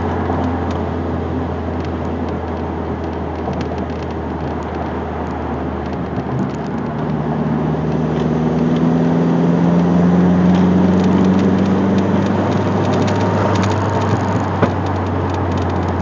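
Turbocharged Neon's four-cylinder engine heard from inside the cabin while driving: a steady drone over road noise. About halfway through, the engine note rises slowly in pitch and gets louder as the car pulls, then falls away.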